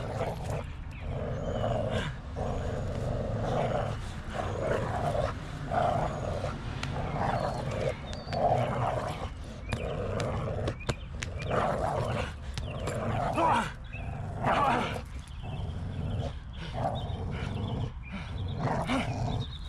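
Dog growling in repeated rough bursts while gripping a decoy's bite suit, over a low steady rumble.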